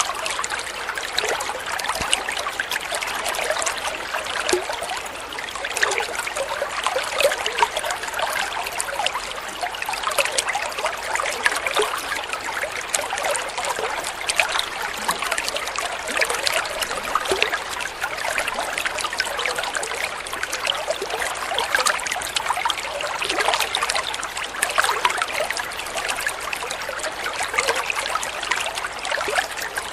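Water trickling and babbling steadily, a continuous splashy flow with many small bubbling pops.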